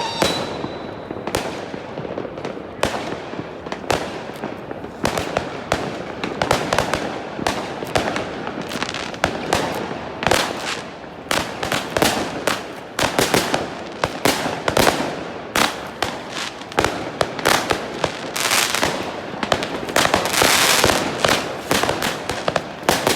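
Fireworks display: a continuous barrage of sharp bangs and crackling pops at irregular intervals, with a denser stretch of crackle near the end.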